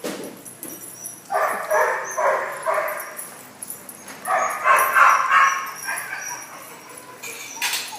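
Small dogs barking at play, in two quick runs of repeated barks: one about a second in and another around four seconds in. A sharp click sounds near the end.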